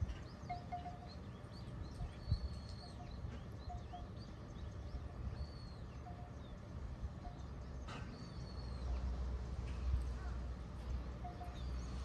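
Small birds chirping: short high calls about every second, with short lower notes in between. Under them runs a steady low rumble that grows louder in the last few seconds.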